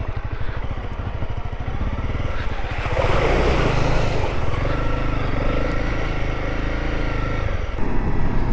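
Honda CRF250L single-cylinder dual-sport motorcycle running under way on a dirt track, its engine pulsing steadily. A louder rush of noise comes about three seconds in.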